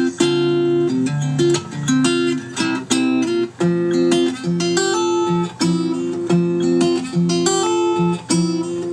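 Acoustic guitar music: plucked and strummed notes in a steady, repeating pattern.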